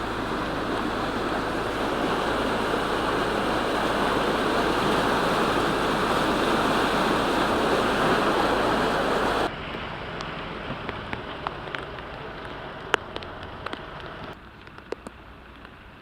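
Loud, steady rush of flowing floodwater, cutting off abruptly about nine seconds in to a quieter hiss with scattered ticks and clicks.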